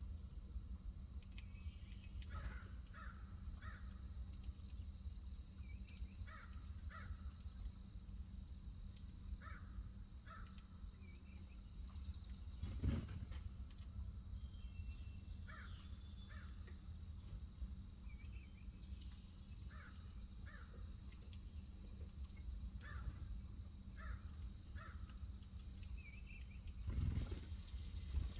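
Wild birds calling outdoors in short repeated calls, mostly in twos and threes, over a steady high insect drone. A higher buzzing swells for a few seconds twice. Twice a dull thump is heard, the louder one about halfway through.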